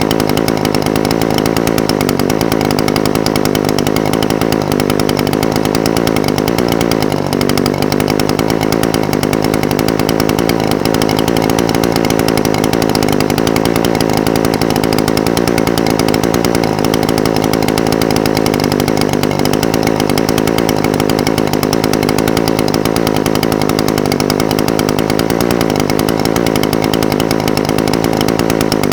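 Echo SRM-420TES brush cutter's two-stroke engine idling steadily, its pitch wavering slightly.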